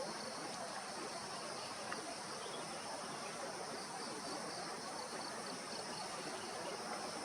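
Steady, high-pitched chirring of an insect chorus that does not change, with a faint single tick about two seconds in.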